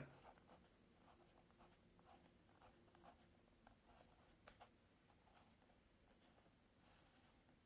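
Near silence: room tone with a few faint, scattered light clicks and scratches.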